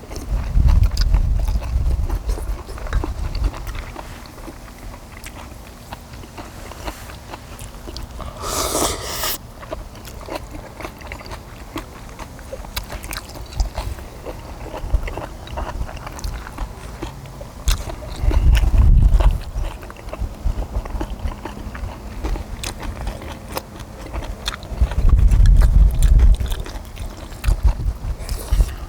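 Close-up eating sounds from people chewing stir-fried small octopus and kimchi: wet chewing and small clicks and smacks throughout. A short louder rustle or slurp comes about a third of the way in, and three low rumbles come near the start, past the middle and near the end.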